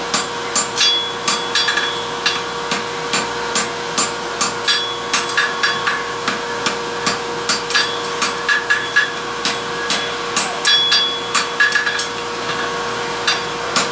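Blacksmith's hammer striking a hot steel ring on an anvil, forging its corners square: a steady run of blows, about two to three a second, some with a short metallic ring, broken by brief pauses. A steady hum sounds underneath.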